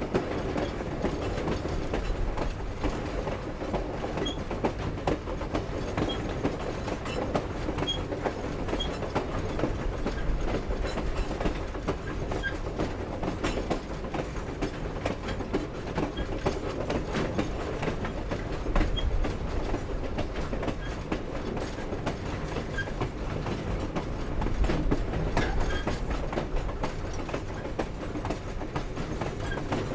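Steam-hauled passenger train rolling along: a continuous rumble of wheels on the rails with irregular clanks and clicks from the cars, swelling a little near the end.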